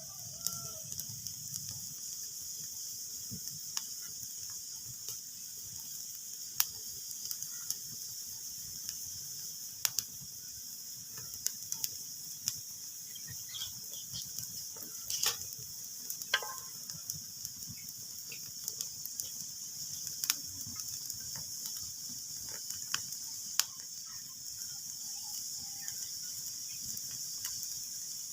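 Wood fire crackling: a steady soft hiss with sharp pops and snaps at irregular intervals, several of them louder.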